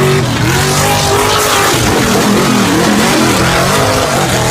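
Mega truck's engine revving hard, its pitch rising and falling several times over a loud rushing noise.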